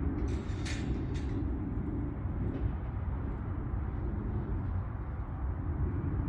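Engine of farm machinery running steadily with a low rumble, with a few short rattling scrapes in the first second or so.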